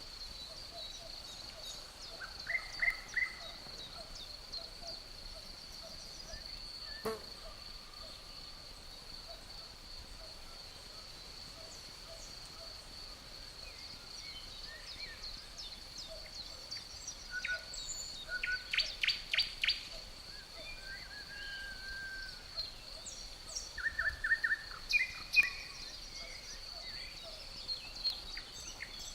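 Forest ambience: crickets trilling in one steady high note, with songbirds chirping in short bursts, most busily in the second half.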